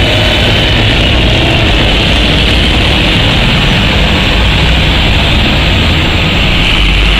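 Range Rover Sport's engine pulling away through city traffic: a steady, heavy rumble.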